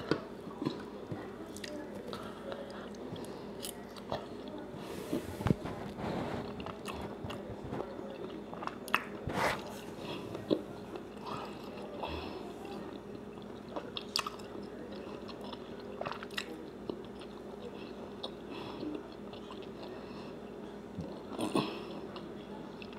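Close-up chewing of a forkful of country fried steak in creamy gravy: wet mouth smacks and soft clicks scattered through, over a faint steady low hum.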